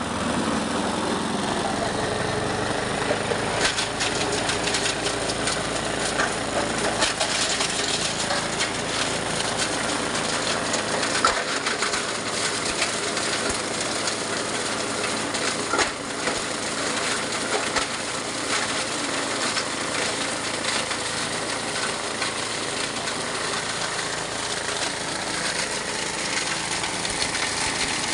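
Mini plastic shredding machine running steadily, with many sharp scattered clicks and occasional louder knocks over its steady mechanical noise.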